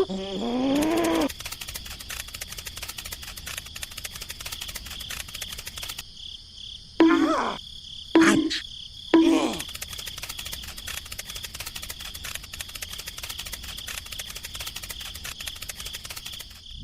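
Steady high-pitched insect chirring with a fast, fine pulse, broken by a few short calls that rise and fall in pitch: one at the start and a cluster about halfway through.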